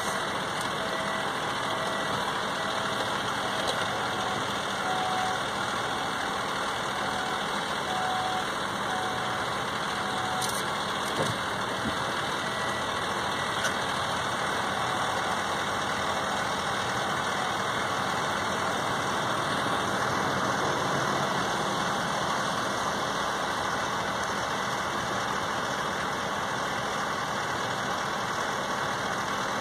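An engine running steadily under a constant hiss of noise.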